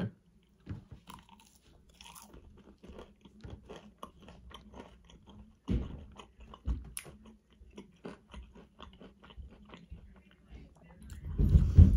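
A person chewing crunchy food close to the microphone, with several small crunches a second and a heavier bite about six seconds in.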